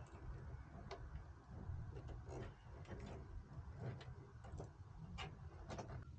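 Irregular light clicks and taps from hands handling PC parts while fitting a CPU cooler, over a low steady hum.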